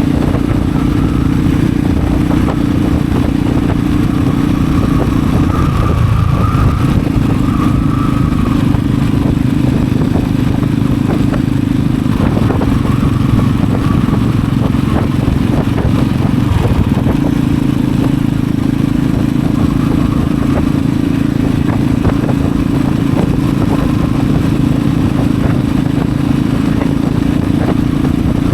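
Kengo Classic 400 motorcycle's exhaust note while it is ridden along at a steady, easy pace, with a rush of wind and road noise over it. The engine note shifts briefly a few times.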